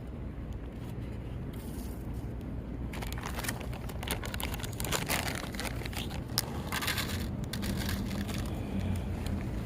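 Rustling, crinkling and scraping that grows busier about three seconds in, over a steady low outdoor rumble.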